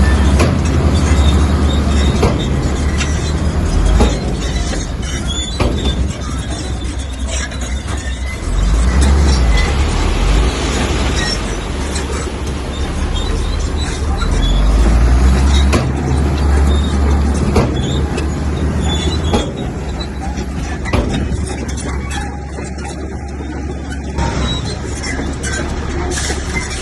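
Komatsu crawler bulldozer working, its diesel engine running with a heavy low rumble, with repeated metallic knocks and clanks scattered throughout.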